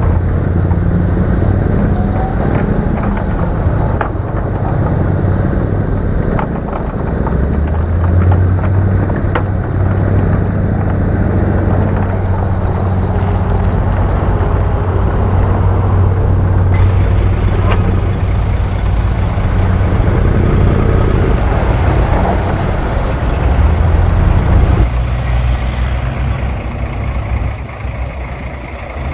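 Heavy diesel earthmoving machinery running with a steady low engine drone that rises and falls, with a few scattered knocks and clanks.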